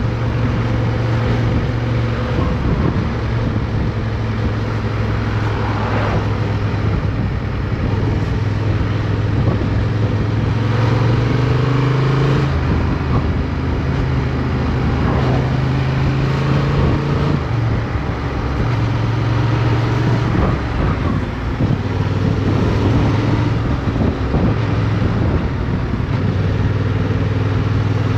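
Motorcycle engine running steadily under way, heard from onboard, its note stepping up and down in pitch a few times, with rushing noise from the ride behind it.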